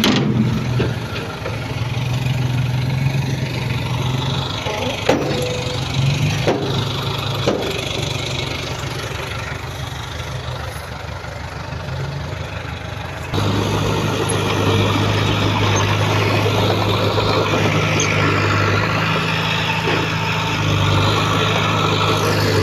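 Heavy diesel earthmoving machinery running at a steady, low engine note, with a few sharp metallic knocks in the first half. About halfway through, the engine sound suddenly gets louder and stays steady.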